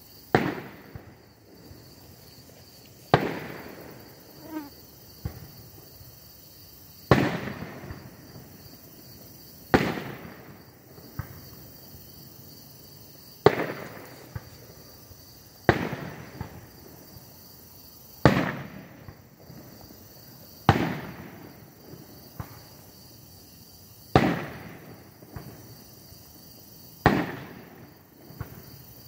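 Aerial fireworks shells bursting, about ten loud bangs a few seconds apart, each followed by a rumbling echo that dies away over a second or two, with a few smaller pops in between.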